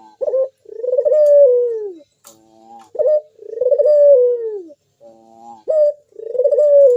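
Puter dove (local turtle dove) cooing in a repeated phrase: a short note, then a long arching coo that falls away at the end. The phrase comes three times, about every two and a half to three seconds.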